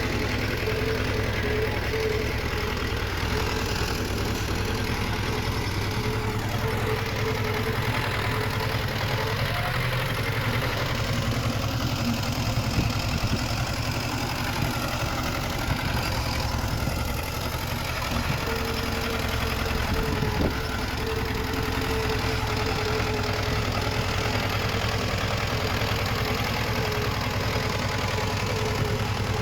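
Komatsu D20 bulldozer's diesel engine running steadily, with a faint whine that comes and goes.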